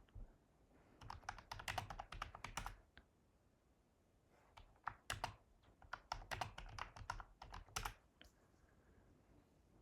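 Typing on a computer keyboard in two runs of quick keystrokes, with a short pause between them. The typing stops about eight seconds in.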